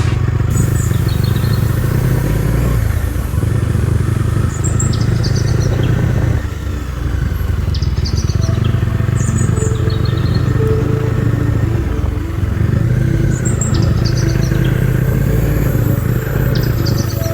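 Motorcycle engine running steadily under way, its sound dropping briefly about six and a half seconds in. Birds chirp in short calls every second or two over it.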